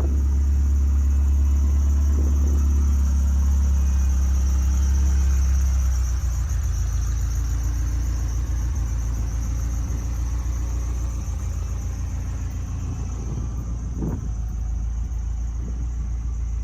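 1978 Ferrari 308 GTS's carbureted 2.9-litre quad-cam V8 idling on part choke during its cold-start warm-up, through an ANSA four-exit exhaust. The deep idle drops a little in loudness about six seconds in and then runs steadily.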